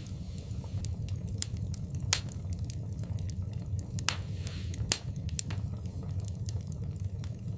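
Wood fire in a fireplace burning with a low steady rumble and scattered sharp crackles and pops, the loudest pop about two seconds in, and a brief hiss a little past four seconds.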